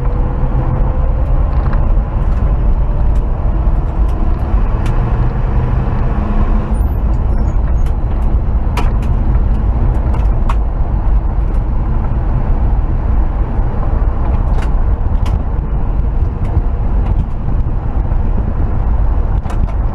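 1968 Chevrolet C20 pickup driving, heard from inside the cab: steady low engine and road rumble, with a few sharp clicks and rattles scattered through.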